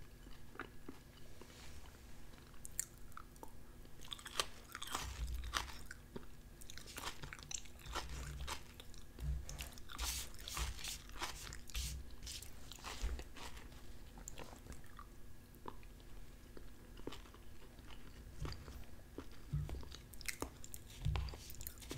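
A person chewing soft roasted red potatoes and onions, with frequent small mouth clicks, and a fork tapping and scraping on a plate between bites.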